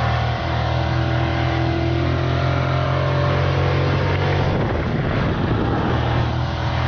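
Race car engine running hard at steady revs, with a rough, unsteady stretch about two-thirds of the way through before it settles back to a steady pitch.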